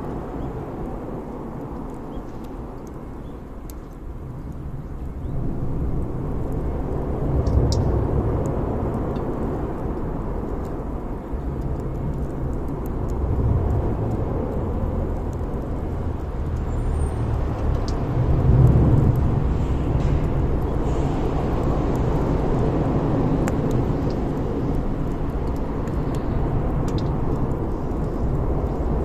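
Wood bonfire burning, with scattered sharp crackles and pops over a steady low rumbling noise that swells in places.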